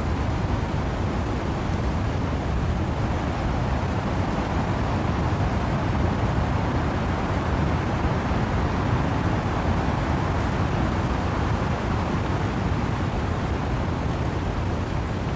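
Wind and rain through trees: a steady, unbroken rushing noise, deepest in the low end, with no separate drops or gusts standing out.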